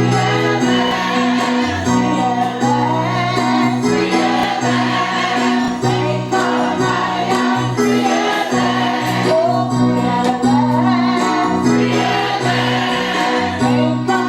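Gospel choir singing over instrumental accompaniment with sustained bass notes and light percussion.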